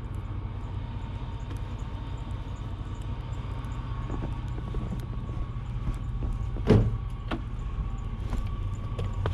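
Snow-plow truck's engine idling steadily, with a sharp knock about two-thirds of the way through and a few lighter clicks after it.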